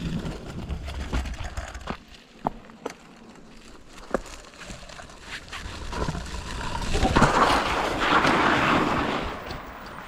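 Small bike rolling down a rough dirt trail: wind rumble on the microphone and scattered rattling knocks, then a louder scraping rush from about seven seconds in to near the end.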